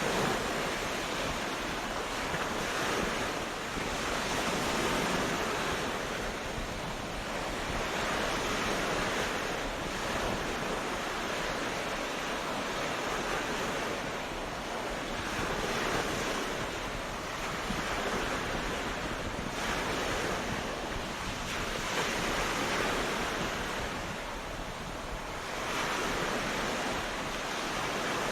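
Ocean waves breaking and washing on a beach, a steady surf that swells and eases every few seconds.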